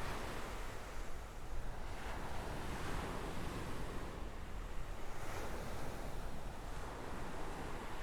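Small sea waves breaking and washing up a sandy shore, surging twice. Wind rumbles on the microphone underneath.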